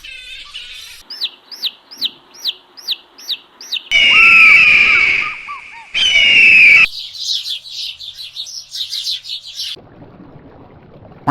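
Bird calls: a series of about eight thin whistled notes, each falling in pitch, then two loud harsh screeching cries with a falling tone, then a rapid high chattering run that stops about ten seconds in.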